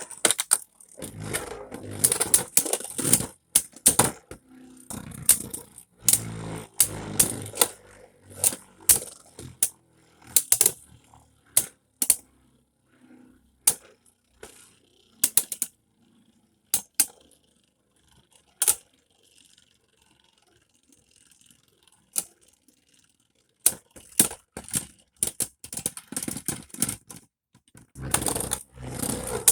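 Metal-wheeled Beyblade spinning tops clashing in a plastic stadium: rapid, irregular metallic clicks and clacks. The clashes come thick and fast at first, thin out to a lull about two-thirds through, then return in a fresh flurry near the end.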